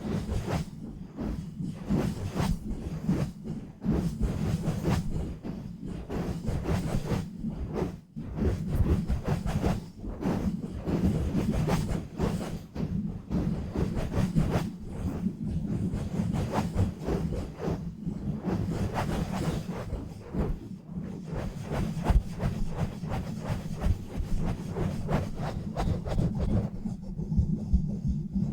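Fast, rough rubbing and scratching directly on a bare microphone with no foam cover or filter, in a dense run of short strokes with a steady low rumble under them.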